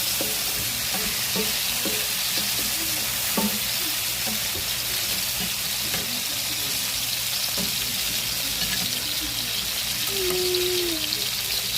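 Food frying in hot oil in a pan: a steady sizzle, with a few light knocks in the first few seconds.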